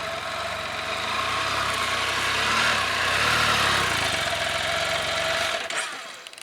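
2018 Can-Am Spyder F3-T's Rotax 1330 inline three-cylinder engine idling to warm the oil so it drains easier, then shut off about five and a half seconds in.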